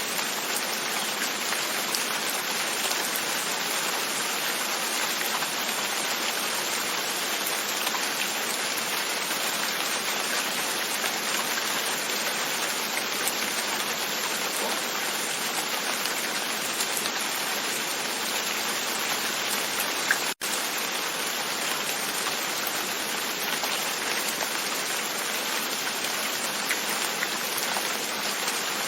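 Steady rain falling on a window, with scattered drop taps through an even hiss. It cuts out for an instant about two-thirds of the way through.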